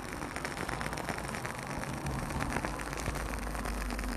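Cherry-wood wick of a scented wax candle in a glass crackling steadily: a dense, fast run of tiny pops, like a fireplace.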